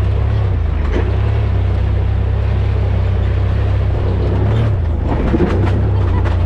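Side-by-side UTV engine running steadily at low, even revs, with a few brief knocks about a second in and again near the end.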